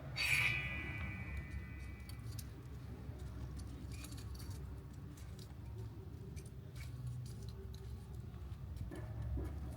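A sudden metallic clink that rings on and fades over about two seconds, followed by scattered small pops and ticks typical of a campfire crackling, over a low steady rumble.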